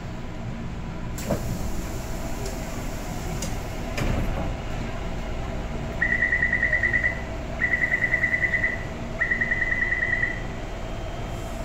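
Taipei Metro Bannan line train standing at a station, its door-closing warning sounding as three bursts of rapid high beeping over the steady hum of the train. Two single knocks come about a second in and about four seconds in.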